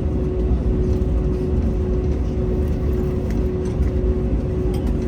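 Steady low rumble of an Airbus A321neo cabin on the ground after landing, with a constant even hum running through it and a few faint clicks.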